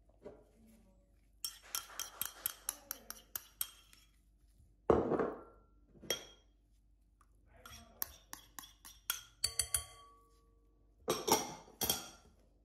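Dishes and kitchen utensils clinking and clattering: a quick run of sharp clicks, a louder knock about five seconds in, more clicks with a short ringing tone near ten seconds, and a burst of clatter near the end.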